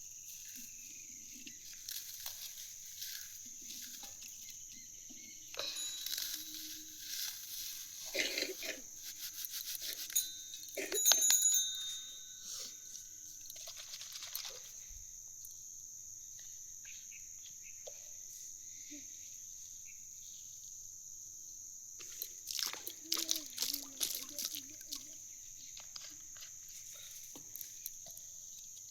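Steady, high-pitched chirring of crickets and other insects. Over it come irregular knocks and rustles, with the loudest cluster about eleven seconds in and another about twenty-three seconds in.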